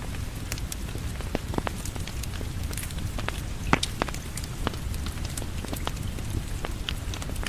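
Steady rain with a wood fire crackling over it, scattered sharp pops and snaps, one louder pop a little under four seconds in.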